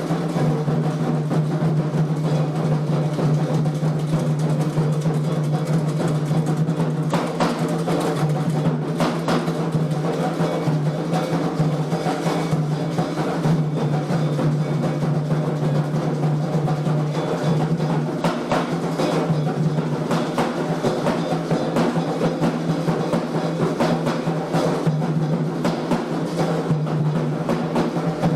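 Candomblé atabaque hand drums playing a continuous, dense ritual rhythm, over a steady low hum.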